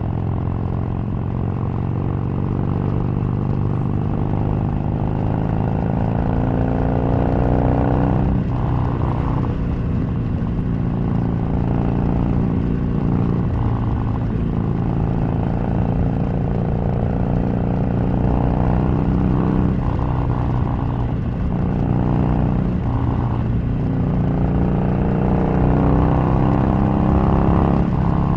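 Harley-Davidson 883's air-cooled V-twin engine running under way on a ride, its note rising and falling with the throttle, with several brief dips and shifts in pitch.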